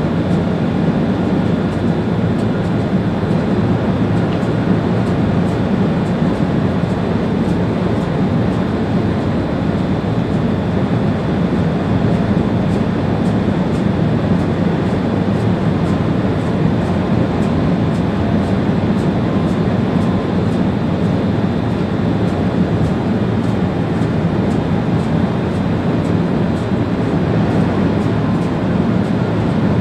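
Steady running noise of a Railjet high-speed train at speed, heard from the driver's cab: a continuous rumble with faint regular ticking.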